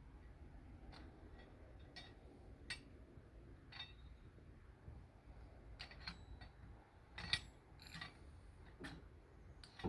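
Quiet, with a faint low rumble and scattered light clicks and knocks, a little louder about seven seconds in.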